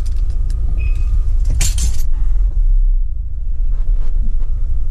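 Audi TT Mk1 Roadster on the move: steady low engine and road rumble, with a brief rattle about one and a half seconds in.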